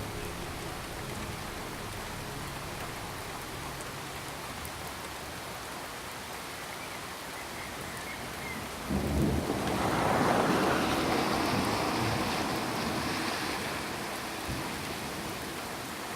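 Steady rain falling, then about nine seconds in a sudden clap of thunder that rolls into a rumble, swells for a few seconds and slowly dies away.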